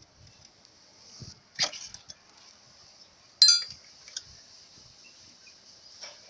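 Metal tools and engine parts clinking during dismantling: a knock about a second and a half in, then a sharp ringing metallic clink about three and a half seconds in, with a few faint taps. A faint steady high hiss runs underneath.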